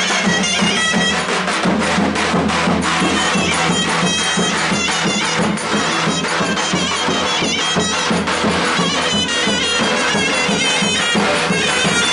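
Traditional Turkish wedding music played live and loud: a shrill reed wind instrument playing a continuous melody over a drone, with drum beats.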